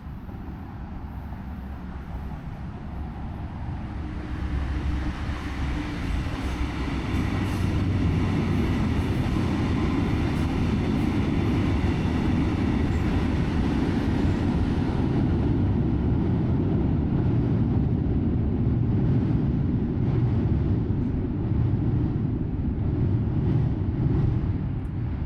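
A Brightline passenger train, hauled by a Siemens Charger diesel-electric locomotive, passes with a steady rumble of engine and wheels on rail. It builds over the first several seconds, stays loud, and starts to fade near the end.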